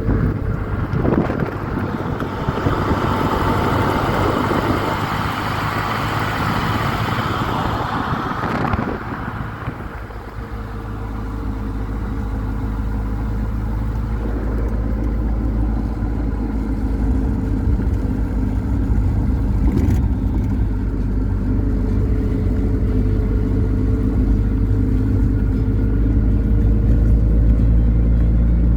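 Triumph Spitfire Mk IV's four-cylinder engine running on the move. From about one to nine seconds a loud rushing noise lies over it; after that the engine note is steady and slowly grows louder.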